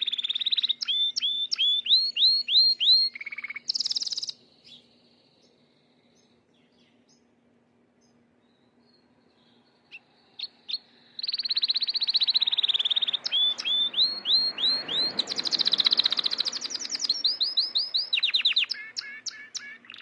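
Gloster canary singing in bursts of rapid trills and quick repeated rising and falling notes, a bird starting to warm up into song. It sings for about four seconds, falls silent for about six, then sings again from about ten seconds in.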